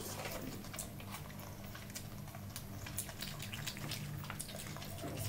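Close-miked chewing of a hand-fed mouthful of chicken biryani: faint wet mouth clicks and smacks scattered throughout, over a low steady hum.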